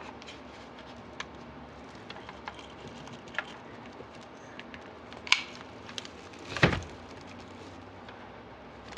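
Scattered light clicks and taps of wreath ornaments and decorations being handled during a glue repair, with two louder knocks, the first about five seconds in and the second, slightly longer, just before seven seconds.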